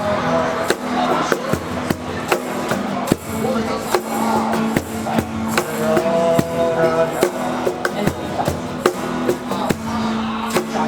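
Guitar-and-drum-kit band playing a song, the drums keeping a steady beat of sharp hits, with a long held melody note about six seconds in.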